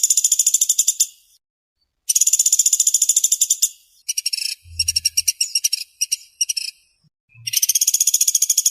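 Pelatuk sampit (pelatuk beras) calling in fast, tightly packed rattling trills: bursts of about a second and a half of rapid high notes, separated by short pauses, with a choppier, broken stretch in the middle.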